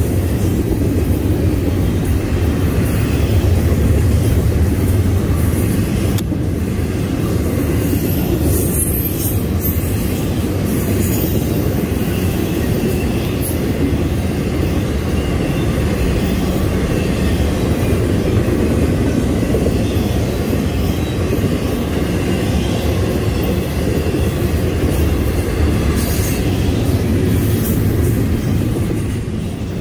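Double-stack intermodal freight train's cars rolling past close by: a steady, loud rumble and clatter of wheels on the rails, with brief high wheel squeals about a third of the way in and again near the end.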